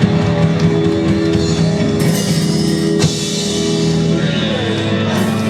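Live rock band playing: electric guitar and drum kit, with two sharp cymbal-like hits about two and three seconds in.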